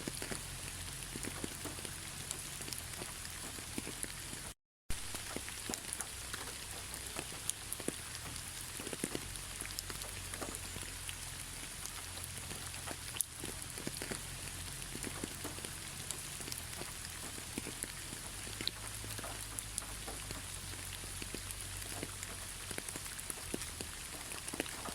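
Steady rain falling, an even hiss dotted with many separate drops ticking close by. The sound cuts out completely for a split second about five seconds in.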